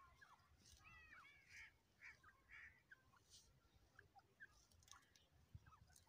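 Faint bird calls: short arching chirps, clustered in the first three seconds and sparser after that.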